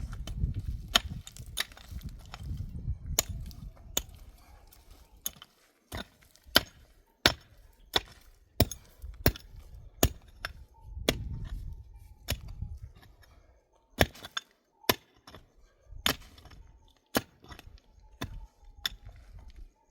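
Repeated sharp blows on wood, about one every half second to a second, with short pauses between runs of strikes.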